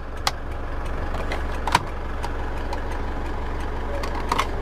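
Isuzu D-Max 2.5-litre twin-turbo four-cylinder diesel idling as a steady low hum, heard from inside the cab. Sharp clicks come about a quarter second in, again just before two seconds and at the very end, as dashboard switches are pressed.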